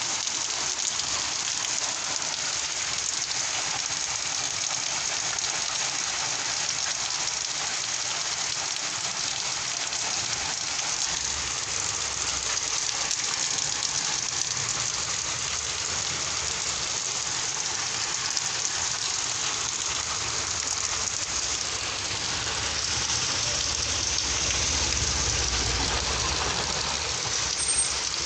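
Steady rain of a kalbaishakhi (nor'wester) storm, falling as a dense, even hiss. A low rumble swells in about three-quarters of the way through.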